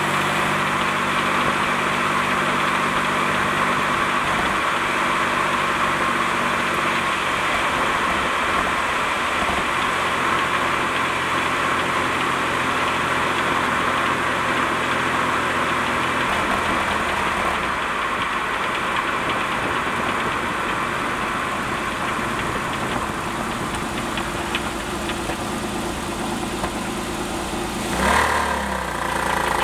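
GM Series II 3800 V6 running in a 1988 Fiero, heard from right under the engine and Getrag 282 transaxle, with a rattle from the transaxle that is not in time with the engine, its cause unknown to the owner. The engine note changes near the end.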